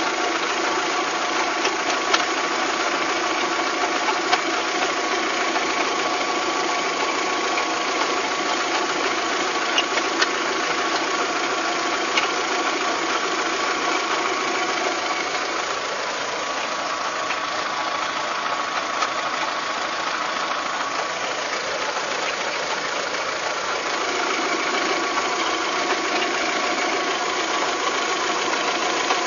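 Volkswagen Golf Mk3 engine running at idle with an abnormal mechanical noise, heard as a knocking rattle over a steady whine, with a few sharp ticks. Its lower tone eases for several seconds past the middle and then returns.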